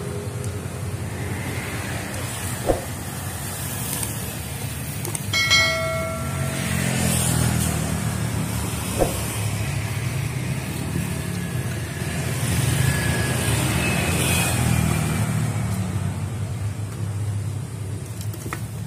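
Road traffic: vehicle engines rumbling steadily as they pass, with a short pitched tone like a horn about five and a half seconds in and two sharp knocks.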